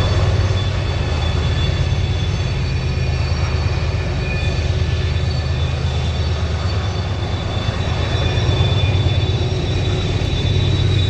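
Train running along the rails: a steady low rumble with faint thin high-pitched tones above it.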